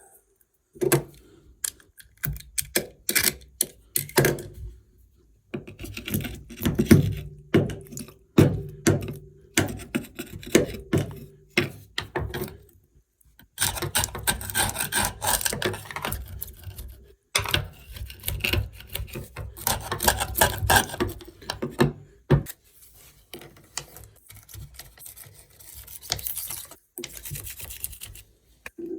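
Repeated hand scraping and rubbing strokes, old silicone sealant being scraped off the edge of a shower tray; runs of short, irregular strokes broken by several brief pauses.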